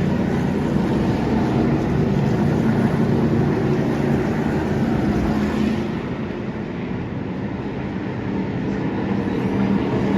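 A pack of NASCAR Truck Series race trucks running around the track, their V8 engines a steady loud drone at pace speed. It eases about six seconds in and swells again near the end as the trucks come around.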